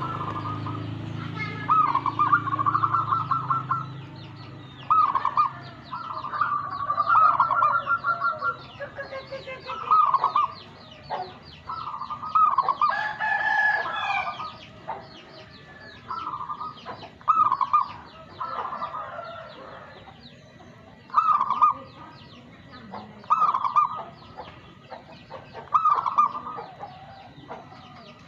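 Zebra dove (perkutut) cooing its rhythmic song: short trilled, bubbling phrases repeated every two to four seconds, with a longer, different bird call about halfway through.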